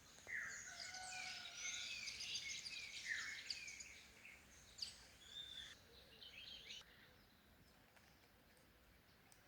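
Several birds singing and chirping, with quick high chirps and a few falling whistles. The song is busy for the first several seconds, then thins out about seven seconds in, leaving a faint hiss.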